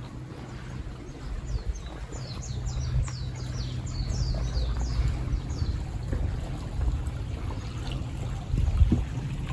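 A small songbird sings a quick run of high, down-slurred notes for about four seconds, over the steady rush of a shallow spring-fed stream and a low rumble.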